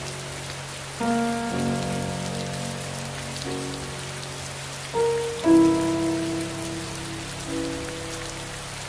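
Steady rain falling, with soft sustained music chords underneath that change every second or two.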